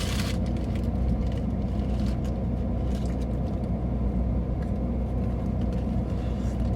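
Steady low hum of a car engine idling, with a few faint clicks over it.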